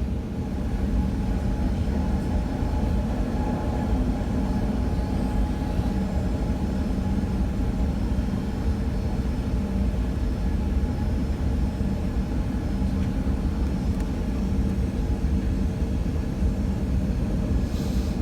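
Inside the cabin of a Boeing 737-900ER on the ground after landing: a steady rumble with a constant hum from its CFM56-7B jet engines at idle.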